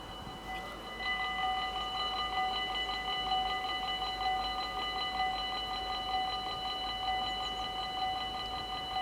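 Warning bells of a Dutch automatic half-barrier level crossing ringing in rapid, even strokes, growing louder about a second in.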